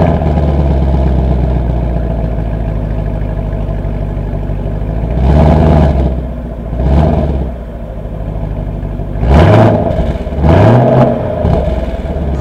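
2017 Chevrolet Camaro 2SS's 6.2-litre V8 idling just after starting, blipped four times with short rising revs about five, seven, nine and a half and ten and a half seconds in.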